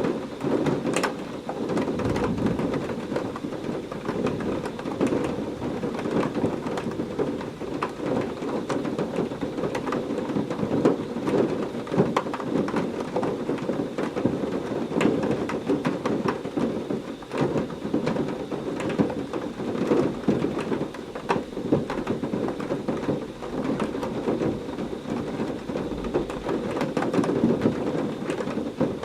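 Heavy rain falling steadily in a thunderstorm, thick with sharp drop hits, over a low, steady rumble.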